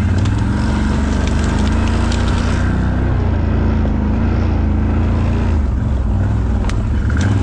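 ATV engine running under way, its pitch drifting slightly up and down with the throttle, with scattered short knocks and rattles from riding over rough ground.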